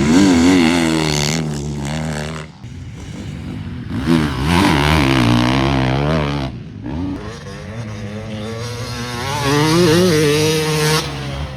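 Motocross bikes revving hard as they ride past on the track, the engine pitch rising and falling with throttle and gear changes. Three loud runs with short dips between them.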